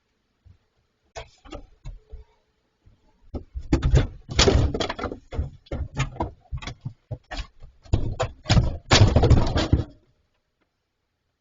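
A run of irregular knocks, thuds and bangs, thickest about four seconds in and again near the end: bears pushing and batting at a refrigerator, its metal body and door banging.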